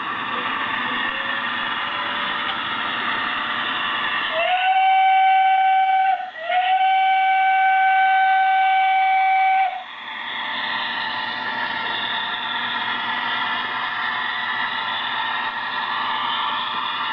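Model train running on the layout's track with a steady rumble and hiss. About four and a half seconds in, its sound system blows a loud whistle: a short blast, then a longer one of about three seconds, before the running noise takes over again.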